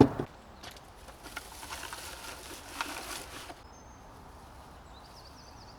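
A single sharp knock, then handling and rustling noises with a few light clicks, and faint high bird chirps near the end.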